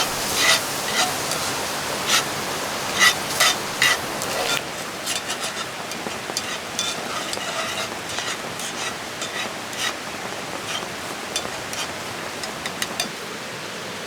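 Cooking over a campfire: sharp clicks and knocks of a utensil in a pan, louder in the first few seconds and then lighter ticking, over a steady hiss of rain and river.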